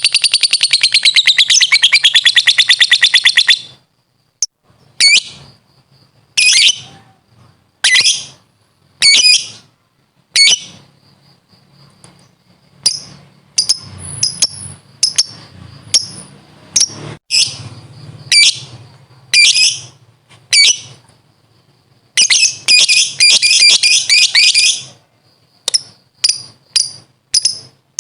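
Lovebird ngekek: a long, rapid, shrill chattering trill for the first few seconds, then separate sharp chirps about once a second, with another fast trill burst near the end.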